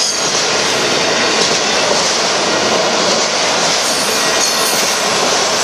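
Freight cars of a Union Pacific merchandise train rolling past close by. Their steel wheels make a loud, steady rumble and rattle on the rails.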